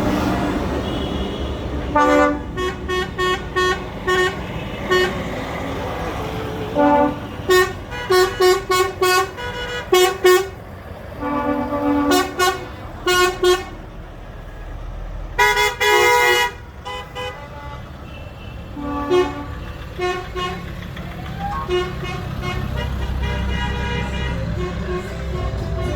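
Vehicle horns on passing tractors and farm vehicles tooting over and over in quick runs of short blasts, over the steady low running of their diesel engines. Near the end the engine rumble grows louder as a large vehicle comes closer.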